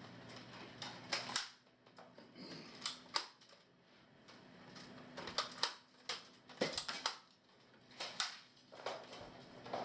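Toy dart guns firing and darts hitting targets: a scattering of sharp clicks and snaps, several coming in close pairs.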